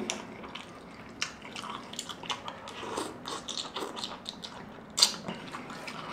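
Close-miked eating sounds of birria ramen noodles in consommé: wet chewing and slurping with many small mouth clicks, and one sharp click about five seconds in.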